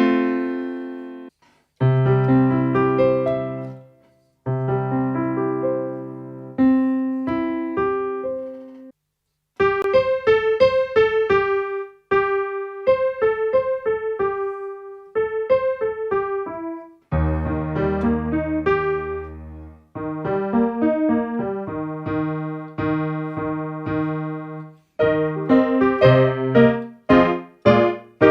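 Acoustic piano tone on a Casio AiX-engine portable keyboard, played as held chords with short pauses, then quicker melodic phrases over chords, with a deep bass note held for a few seconds past the middle.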